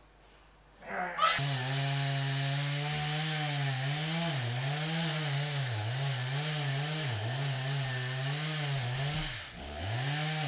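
Two-stroke chainsaw running at high speed, its pitch repeatedly dipping and recovering as it cuts into pine, with a deeper drop near the end before it revs back up. It starts about a second in.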